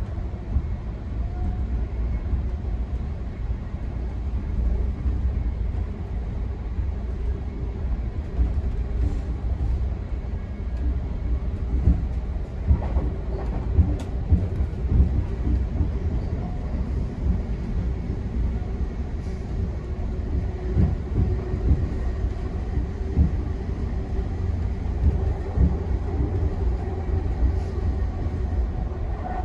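Ride noise inside a moving GO Transit commuter train coach: a steady low rumble of steel wheels on rail, with irregular clicks and knocks from the track and a faint steady hum.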